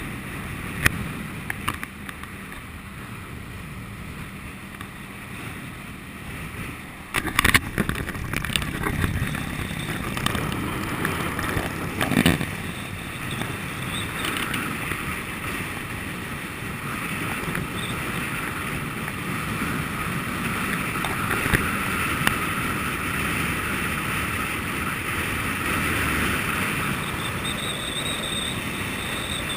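Honda VFR800 V4 motorcycle engine running at speed under heavy wind rush on the microphone, getting louder about seven seconds in. A couple of sharp thumps stand out, one about seven seconds in and one about twelve seconds in.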